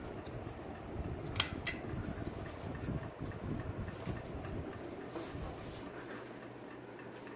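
Vintage 52-inch ceiling fan running with a steady low whir, its blades out of balance so that it wobbles. Two sharp clicks come about a second and a half in.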